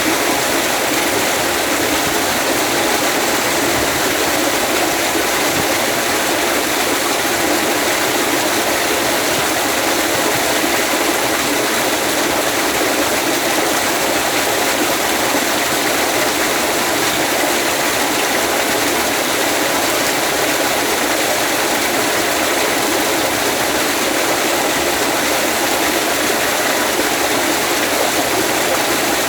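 Water of a waterfall rushing steadily, an even hiss that does not change.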